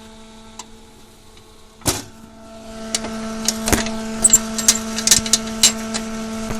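A steady mechanical hum, with one loud knock about two seconds in and then a quick run of sharp clicks and knocks over the second half.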